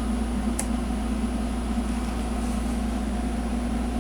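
Steady low machine hum, with a single sharp click about half a second in.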